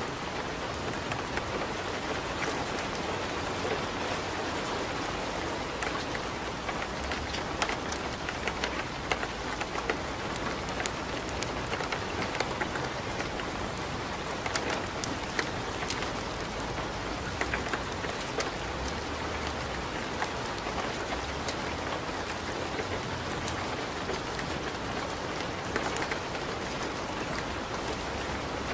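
Steady rain mixed with a crackling wood fire in a fireplace: an even hiss with irregular sharp pops and crackles scattered through it.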